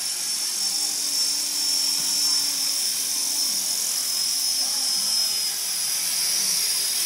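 Radio-controlled model helicopter flying, with a steady high-pitched whine from its motor and rotors. It is spinning out of control, which the pilot blames on a broken tail belt.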